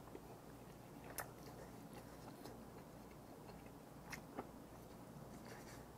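Faint chewing of a mouthful of noodles and squid with the mouth closed, with a few soft clicks about a second in and again near four seconds in.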